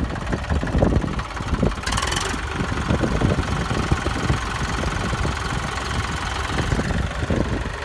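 Eicher 333 tractor's three-cylinder diesel engine running steadily, with a brief hiss about two seconds in.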